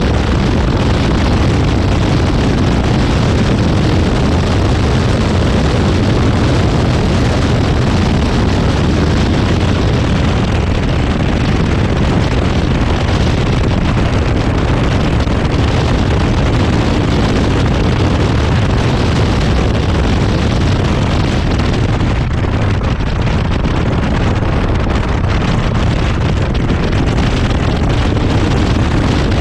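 Zenos E10R sports car's turbocharged Ford EcoBoost four-cylinder engine running at track speed, heard from the open cockpit under heavy wind buffeting on the microphone. The sound holds steady and loud throughout, with no clear gear changes standing out.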